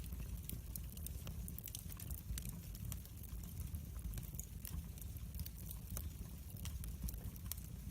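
Wood fire crackling in a fireplace: frequent irregular sharp pops and crackles over a steady low rumble of the burning.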